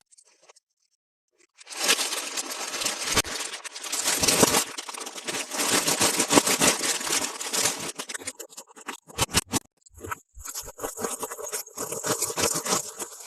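Toys and packaging being handled: a dense stretch of scraping and rustling starting about two seconds in, breaking up after about eight seconds into scattered clicks and rustles.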